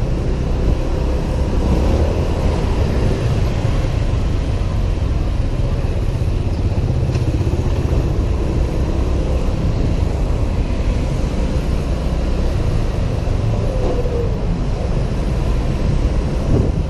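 Honda PCX 125 scooter riding steadily through city traffic, heard through a constant wind rumble on the helmet-mounted camera's microphone.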